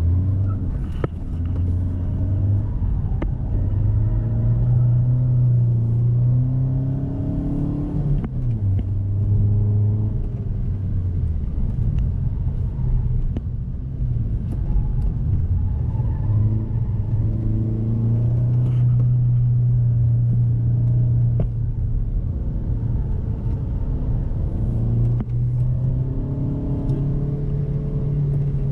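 Hyundai i20 hatchback's engine heard from inside the cabin while driving a lap. The note climbs and falls repeatedly, with sharp drops about eight seconds and twenty-one seconds in.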